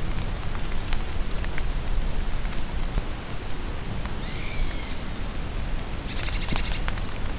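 Steady rain falling in a forest, with scattered drips. Birds call over it: a thin high whistle about three seconds in, a call with sweeping notes around four and a half seconds, and a fast buzzy trill about six seconds in.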